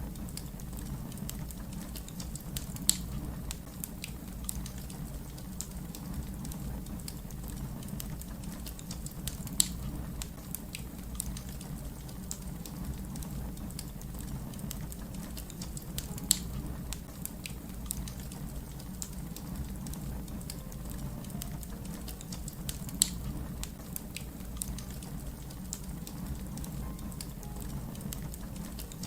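Crackling fire: a steady low rumble of flames under many small scattered crackles, with a louder sharp pop about every six or seven seconds, four in all.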